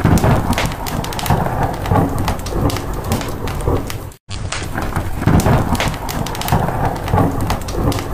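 Rain falling with a low rolling thunder rumble and the sharp crackle of a wood fire in a fireplace. The sound cuts out completely for a split second about four seconds in, where the short recording loops.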